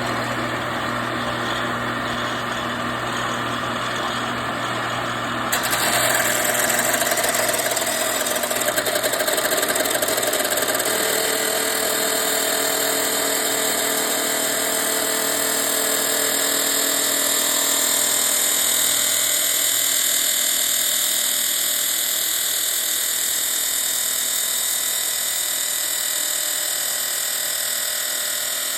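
Abrasive metal-cutting chop saw running with a steady motor whine. About five seconds in, the cut-off wheel bites into the clamped metal and a louder, high grinding takes over, continuing steadily as the blade is fed slowly through the cut.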